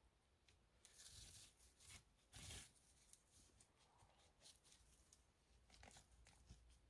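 Faint rustling and crackling, with two louder rustles about a second and two and a half seconds in, among scattered small clicks.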